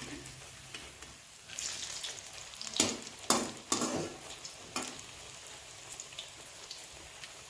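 A crisp, freshly fried pakora being bitten and chewed close up, giving a few irregular crunches, most of them about three to five seconds in, over a faint steady hiss.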